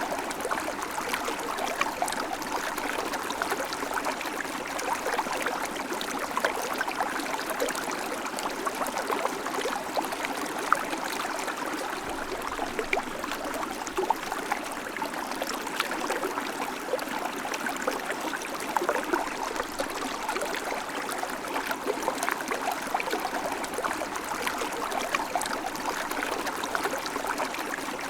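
Shallow river flowing steadily, with a continuous rush of water and many small splashes and gurgles over it.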